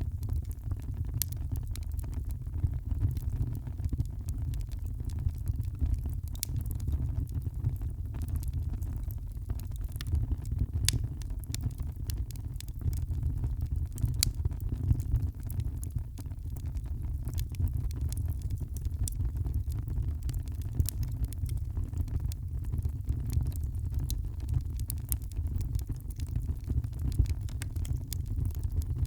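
Wood fire crackling in a fireplace: many small sharp pops and snaps at irregular moments over a steady low rumble.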